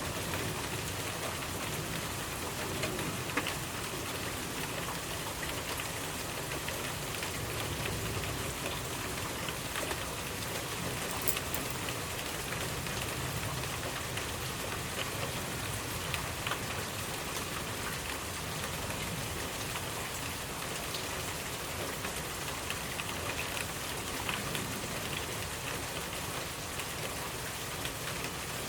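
Steady rain falling on a surface, with a constant hiss and scattered individual drop ticks.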